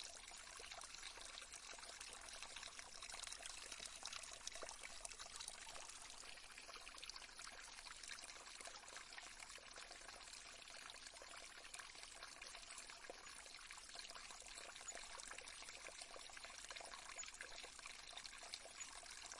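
Faint, steady trickling of a small stream, water babbling over stones with a continuous fine splashing hiss.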